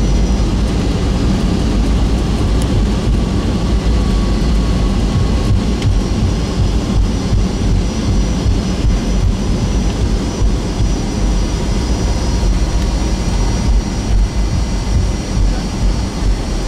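Cabin noise of a Boeing 757-200 on the ground after landing: its Rolls-Royce RB211 engines running at low power over a steady low rumble of the airframe rolling, with a faint whine slowly falling in pitch.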